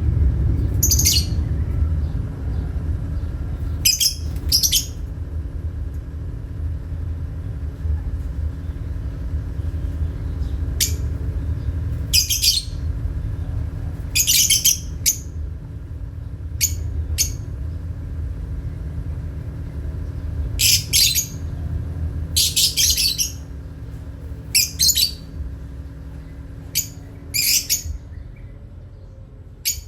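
Pet parrots giving short, sharp chirps and squawks at irregular intervals, over a steady low rumble that fades near the end.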